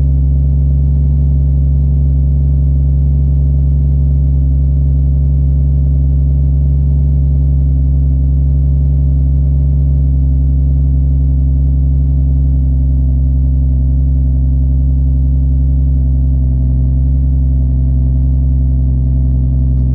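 Nissan Skyline R33's straight-six engine idling steadily after a cold start, a deep, even hum with no revving.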